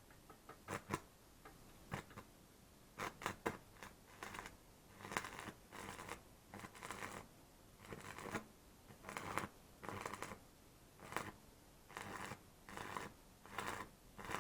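Electric welding arc crackling in a series of short bursts, each a fraction of a second to about a second long, with brief pauses between them: a broken mount being welded and a reinforcing plate welded on in short runs.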